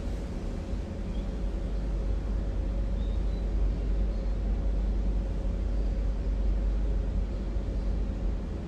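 Steady low rumble and hiss of background noise with a faint steady hum, unbroken, with no voice: the ambient noise of a prayer hall recording during silent prayer.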